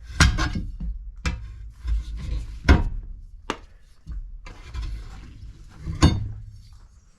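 A series of sharp knocks and clunks, about five at irregular intervals, over a low rumble.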